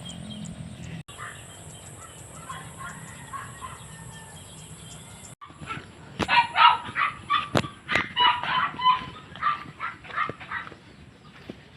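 Quiet outdoor background, then from about six seconds in a loud run of rapid, repeated animal calls that goes on to the end.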